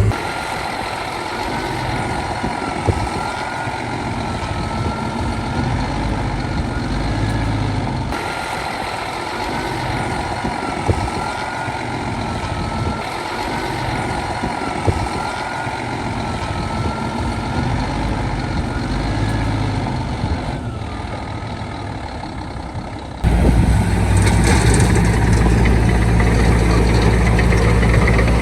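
Shantui D95 bulldozer's diesel engine running under work, with a high whine that wavers up and down. Near the end the engine comes in much louder and deeper.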